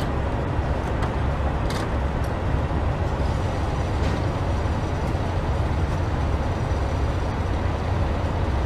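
Steady low rumble of an idling diesel semi truck, with a few faint clicks.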